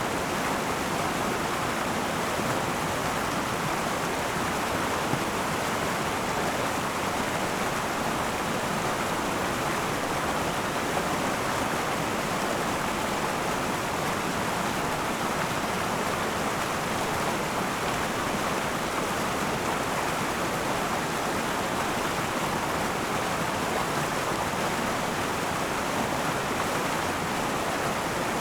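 River water rushing and babbling over rocks, a steady even flow that does not change.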